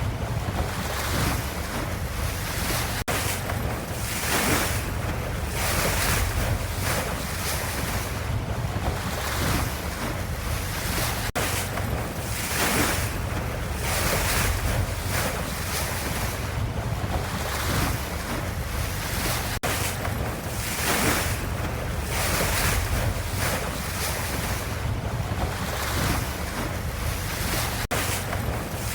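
Ocean waves: a continuous wash of surf with a deep low rumble and swells that rise and fall every second or two. There is a brief dropout about every eight seconds.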